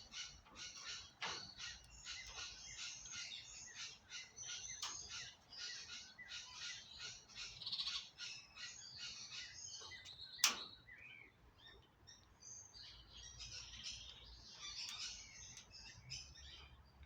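Aviary birds chirping, a dense run of short high chirps with a sharp click about ten and a half seconds in.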